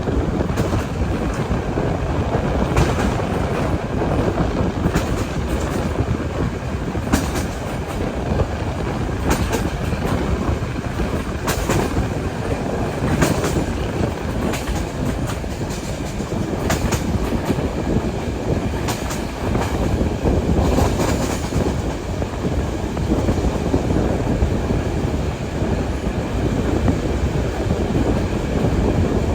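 Steam-hauled passenger train running along the track: a steady rumble of carriage and wheels with irregular sharp clicks and knocks from the wheels on the rails.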